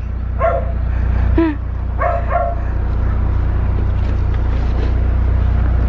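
A vehicle's engine idles steadily, heard from inside the cabin as a low hum. It is broken in the first half by a few short vocal calls.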